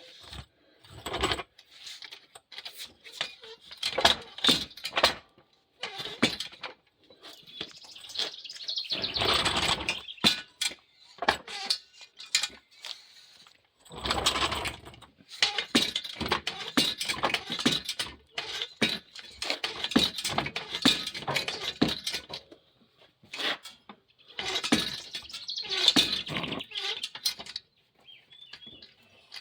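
Working a big old antique car jack: bursts of metallic clicking, rattling and scraping, with short pauses between them and runs of quick, even clicks.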